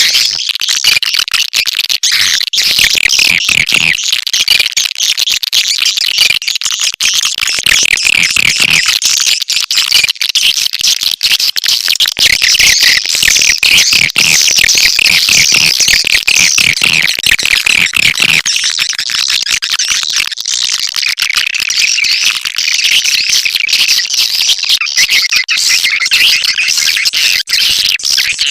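Swiftlet lure call: a recorded, continuous, dense chatter of many overlapping high swiftlet twitters, played to attract swiftlets to a nesting house.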